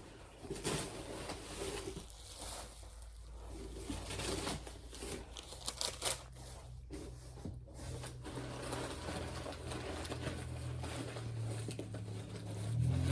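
Packing paper crinkling and rustling in irregular handfuls, with some tearing, as a box is unpacked by hand.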